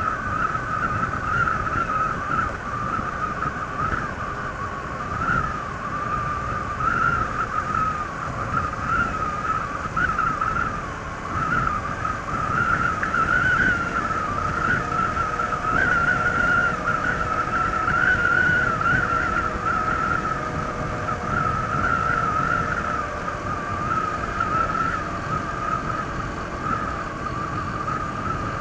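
Honda ADV 160 scooter's single-cylinder engine on its stock exhaust, running steadily at cruising speed, with wind rushing at the microphone. A high whine wavers slightly in pitch throughout.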